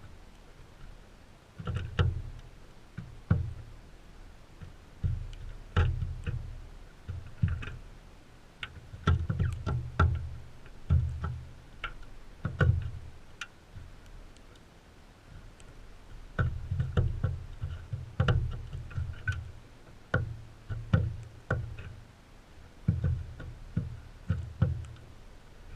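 Crimson rosellas feeding close to the microphone: irregular pecking taps and knocks on the feeder, each with a low thud, coming every second or so.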